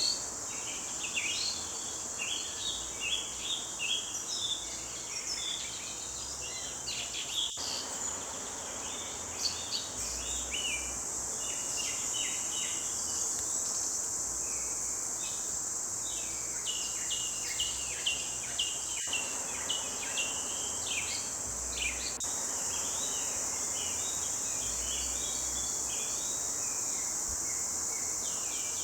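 Forest birds singing: a chorus of many short chirps and quick trills overlapping throughout, over a steady, high, even insect drone.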